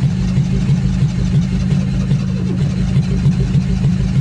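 A cold Ford Torino's engine being cranked on the starter, turning over in even pulses about three to four a second without catching, the battery running down.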